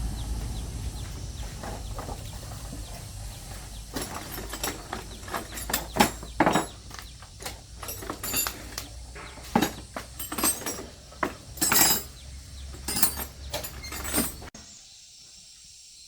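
Irregular metal clinks and clanks of tools and motorbike parts being handled during disassembly, over a low hum that fades away; the sound cuts off abruptly near the end.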